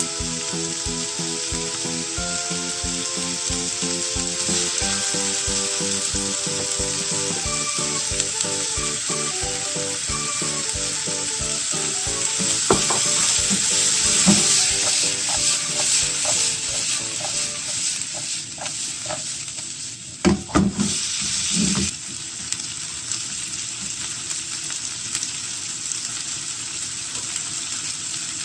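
Fried-rice ingredients sizzling in a frying pan while being stirred, with a few louder spatula scrapes about twenty seconds in. Background music with a steady beat plays under the sizzle for the first half and then fades out.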